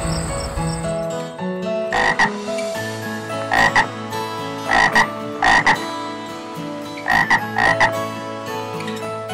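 Short animal calls, mostly in pairs, about ten in all, over steady background music.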